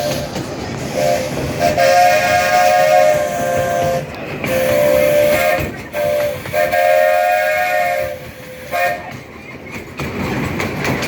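Steam locomotive chime whistle sounding a series of long and short blasts, a chord of several notes, over the hiss of steam and the running of the train.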